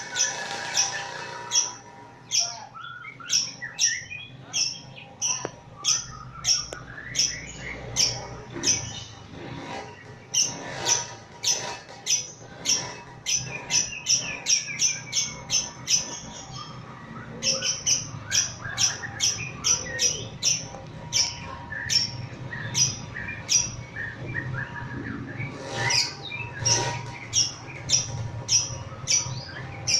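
Lovebird giving its long 'ngekek' chattering call: a rapid run of sharp, high chirps and squawks, several a second. The call speeds up in places and breaks off in two short pauses, about halfway through and again near the end.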